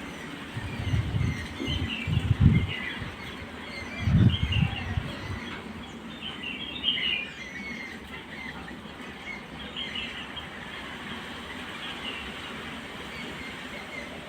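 Small birds chirping and twittering in short, quick calls throughout. Two spells of low rumbling about a second in and again about four seconds in are the loudest sounds.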